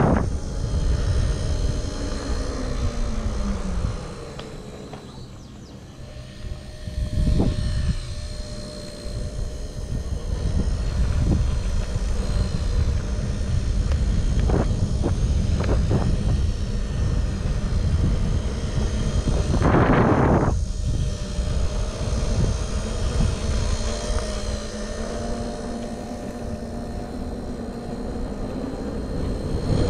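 Steady electric whine of a Blade Nano S3 micro RC helicopter's rotors, over a low rumble, with a few short knocks and a brief louder burst of noise about two-thirds of the way in.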